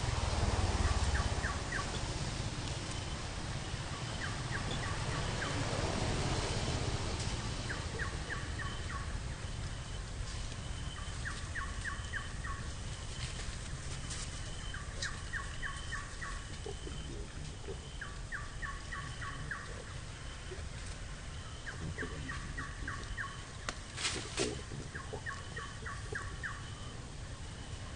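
A bird repeatedly gives a short call of several quick notes, roughly every one to two seconds, over outdoor ambience. A low rumble sits under the first second or so, and a single sharp click comes about 24 seconds in.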